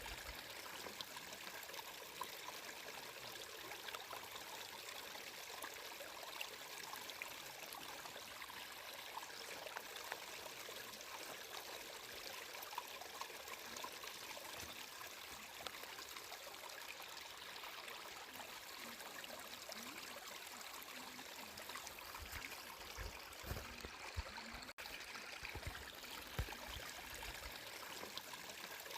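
Water flowing and trickling steadily in a stream, with a few soft low thumps near the end.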